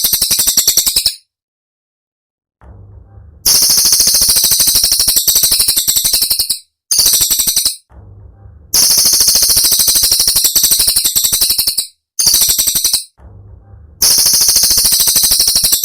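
Cililin bird singing in sharp, high-pitched rapid-fire trills. The rattling phrases last about one to three seconds each, with short breaks between them.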